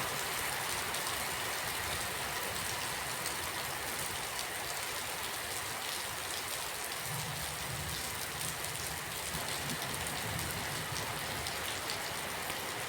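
Steady rain falling, a dense even hiss of drops with fine patter. A low rumble comes in about seven seconds in under the rain.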